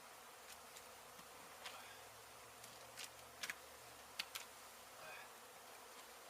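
A swarm of honey bees buzzing faintly and steadily, with a few sharp clicks in the middle.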